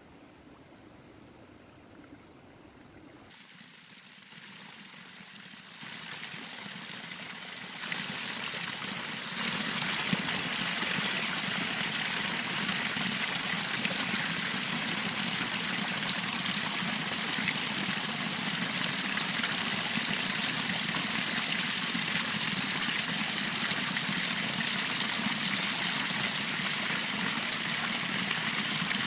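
A stream's water running steadily. It grows louder in a few steps over the first ten seconds, then holds steady.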